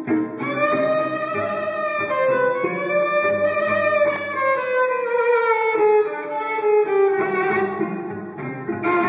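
Live music: a violin holds one long bowed note that rises a little and then slides slowly downward, over a plucked string accompaniment.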